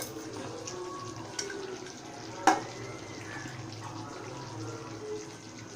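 Chicken kosha sizzling and bubbling in the pan, a steady watery hiss. A sharp knock about two and a half seconds in, with a lighter click a second earlier.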